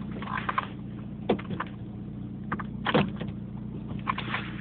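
Pickup truck seat being pushed forward: two sharp clunks of the seat latch and frame, a little over a second and then about three seconds in, with a few lighter clicks, over a steady low hum.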